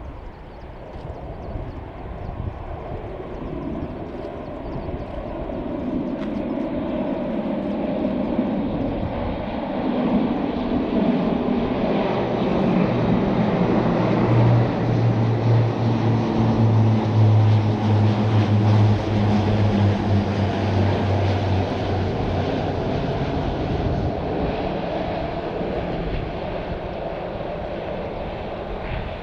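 A fixed-wing aircraft flying past: its engine noise builds steadily, peaks with a strong low hum about halfway through, then slowly fades away.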